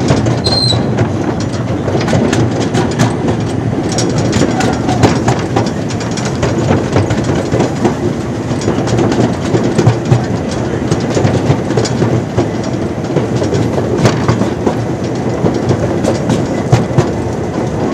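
Miniature park train running along its track, heard from on board: a steady rumble with frequent irregular clicks and rattles from the wheels and cars.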